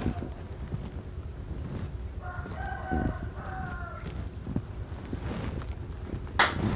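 A rooster crowing once, a drawn-out call of about a second and a half, over a steady rural background. A sharp knock sounds near the end.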